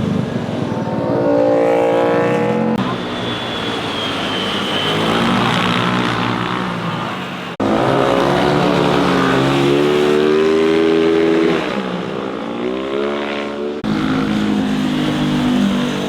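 Motorcycles passing through corners, their engines revving up as they accelerate and dropping between gears, in three separate passes joined by abrupt cuts.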